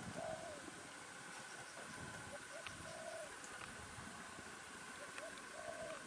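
A bird cooing in low phrases, each a short note followed by a longer one, three times about two and a half seconds apart, over a steady high buzz.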